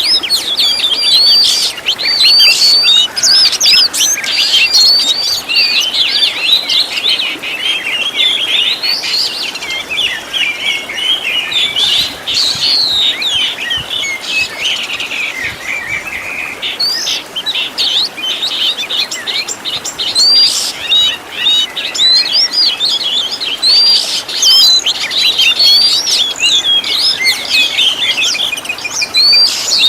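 Oriental magpie-robin (kacer) singing a continuous, rapid stream of varied whistles and chirps, with no pauses.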